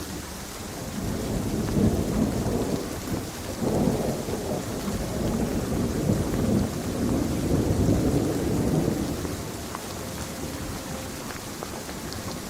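Steady rain with a long roll of thunder that builds about a second in, rumbles in several swells, and fades away near the end.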